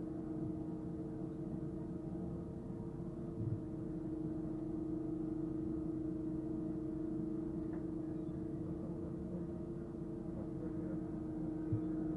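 Steady hum of a Docklands Light Railway train heard from inside the car: a constant whine that holds one pitch, over a low rumble, with a couple of faint knocks.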